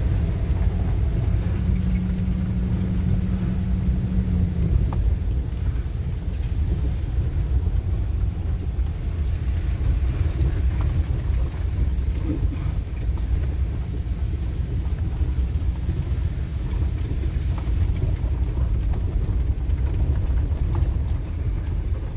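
Ford Econoline E-250 van driving, a steady low engine and road rumble, with a brief steady hum over it a couple of seconds in.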